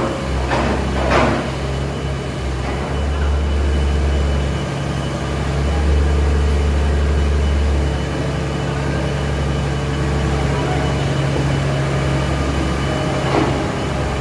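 A large engine running steadily at idle: a loud, low, even hum that swells and eases slightly a few times, with a few short sharp sounds in the first second or so and again near the end.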